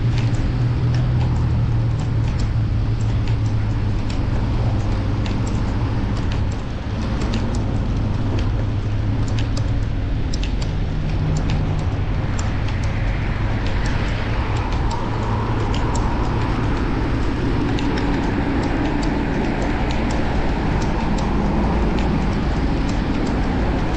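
Riding noise from a chest-mounted action camera on a fixed-gear bicycle in city traffic: a steady low rumble of wind and road noise, with frequent small ticks and rattles and passing traffic.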